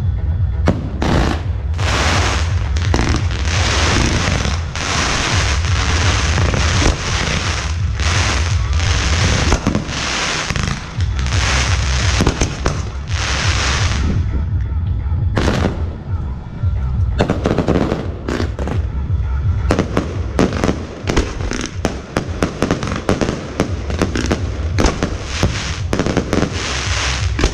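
Fireworks display. Long crackling, hissing bursts fill the first half, and from about two-thirds in a rapid run of sharp bangs follows, over a steady low rumble.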